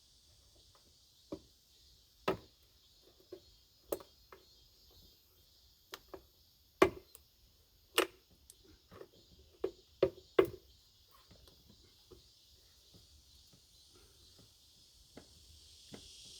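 Irregular knocks and clicks, about a dozen at uneven intervals with the loudest in the second half, over a steady faint high hiss.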